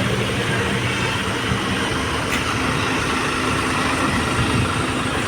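Steady motor-vehicle engine and road noise, an even rumble with no sudden events.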